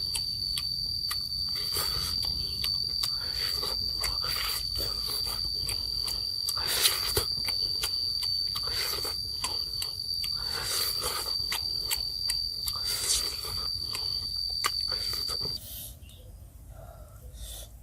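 A steady high-pitched insect drone with crunching, chewing-like clicks over it. The drone cuts off suddenly near the end, and the sound becomes quieter.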